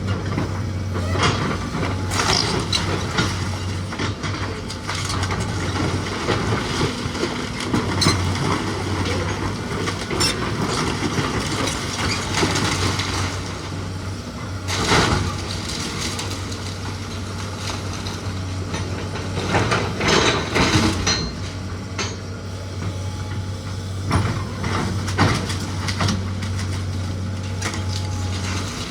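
A machine's engine running steadily under the irregular cracking, crunching and knocking of old wooden house framing being torn apart, with heavier clusters of impacts about halfway through and again about two-thirds through.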